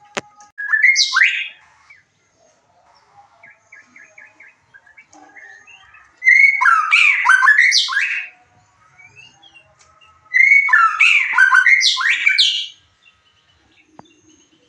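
White-rumped shama (murai batu) singing three loud phrases of fast whistles and trills, a short one and then two longer ones, about four seconds apart. Faint soft notes come between the phrases.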